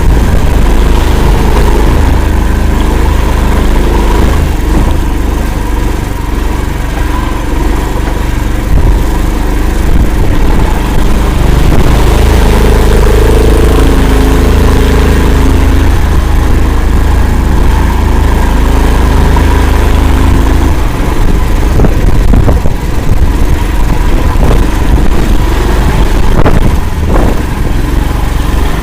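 Engine of an Akula swamp all-terrain vehicle running steadily and loud while driving through a bog, with a few sharp knocks near the end.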